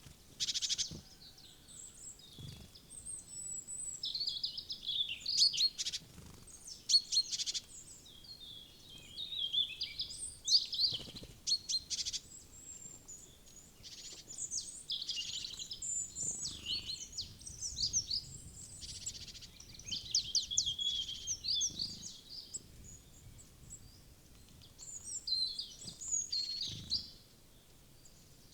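Wild forest birds chirping and singing, many short high calls and quick runs of notes overlapping, coming in bunches with brief lulls between.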